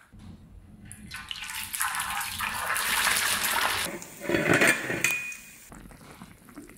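Kitchen cooking sounds: small river fish handled in water in a bowl, then hot oil sizzling around frying fish, a steady hiss that gives way to a louder burst of sizzling or bubbling about four seconds in.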